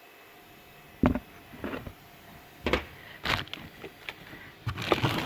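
Engine parts and their packaging being handled on a workbench: a few separate knocks and clunks, then a busier run of knocks and rustling near the end.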